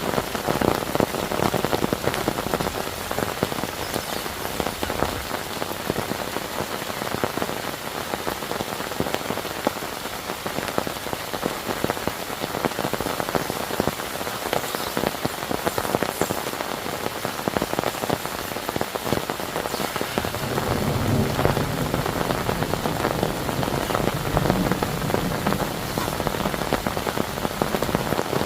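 Heavy rain falling steadily, with many individual drops striking a surface. About two-thirds of the way through, a low rumble joins underneath the rain.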